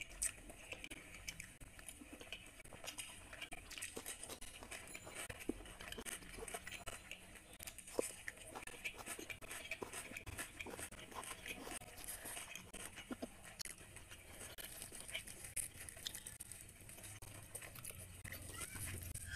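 Close-miked chewing and wet mouth sounds of a person eating puffed luchi (deep-fried puri) soaked in chicken liver curry, with scattered small clicks and a sharper one about eight seconds in. Near the end, a puffed luchi is torn apart by hand.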